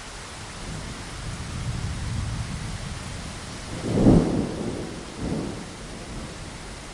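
Steady rain hiss against a window with a roll of thunder: a low rumble builds about a second in, peaks loudest about four seconds in with a smaller swell just after, then dies away.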